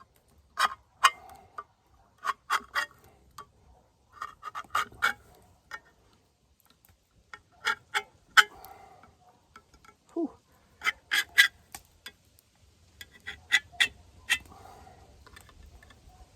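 Homemade knife blade cutting and prying through the lid of a steel food can: groups of sharp metallic clicks and scrapes, a few strokes at a time, with short pauses between them.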